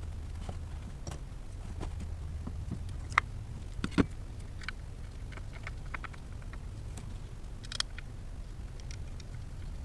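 Scattered clicks and knocks of hand tools and parts while coil packs are swapped in a truck's engine bay, with sharper knocks about three and four seconds in, over a steady low hum.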